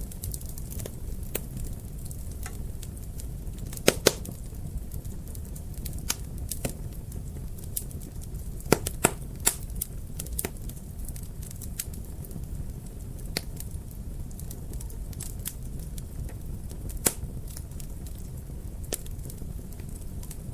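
Wood fire in a fireplace crackling, with irregular sharp pops over a steady low rumble of burning. The loudest pops come about four seconds in and around nine to ten seconds in.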